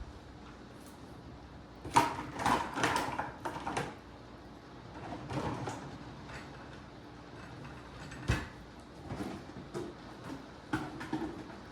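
Clatter and knocks of things being handled and set down: a quick cluster about two seconds in, a single sharp knock past eight seconds, and a few lighter ones near the end.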